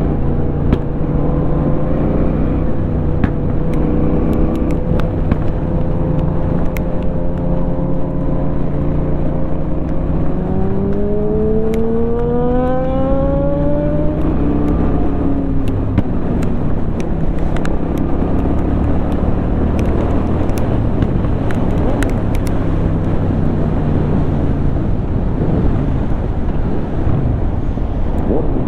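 2004 Honda Shadow 750's V-twin engine running at steady revs under way, then rising in pitch as it accelerates about ten to fourteen seconds in, with wind rush over the microphone afterwards.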